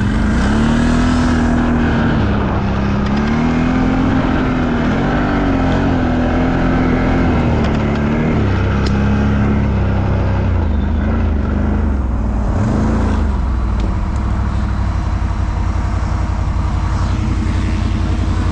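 ATV engine under way, the revs rising and falling with the throttle for about thirteen seconds, then settling to a lower, steadier note near the end.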